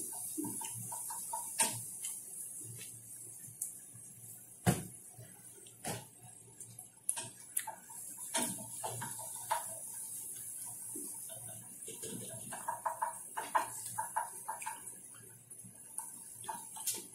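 Raw bell pepper being bitten and chewed close to the microphone: irregular crisp crunches and wet chewing clicks. The loudest is a sharp crunch about five seconds in, with quicker runs of crunching later on.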